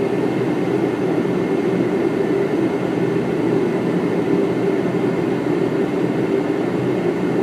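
Steady flight-deck noise of a Boeing 777 on approach: a continuous rush of airflow and air conditioning with a faint steady high tone.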